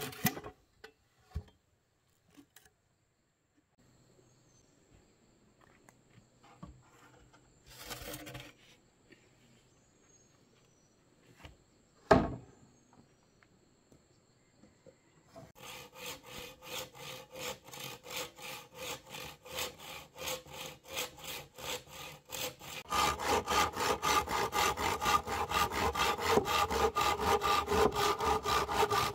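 Saw cutting wood by hand in fast, even back-and-forth strokes, starting about halfway through and getting louder about two-thirds of the way in. Before that, scattered light knocks and one sharp knock.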